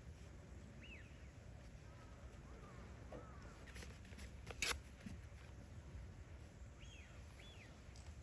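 Faint lakeside outdoor ambience with a low steady rumble and a few short, faint bird chirps near the start and near the end. One sharp click or knock sounds a little past halfway.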